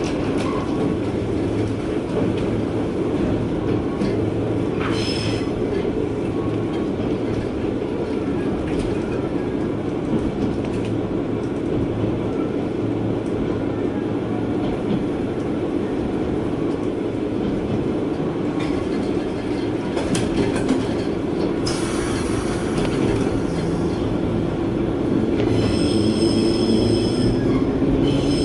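JR West KiHa 120 diesel railcar running on the Sankō Line, heard from inside the car: a steady rumble of the diesel engine and wheels on the rails. Near the end a high-pitched wheel squeal sets in while the engine note rises.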